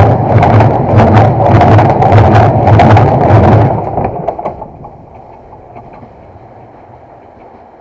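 Train rolling directly over a camera set between the rails: a loud, rhythmic clatter of wheels on the rails, two to three clicks a second, over a heavy rumble. The clatter stops about three and a half seconds in as the last vehicle clears, and a quieter rumble fades away.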